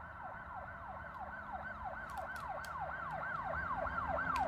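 A siren sounding in quick, repeated falling sweeps, about three a second, growing steadily louder.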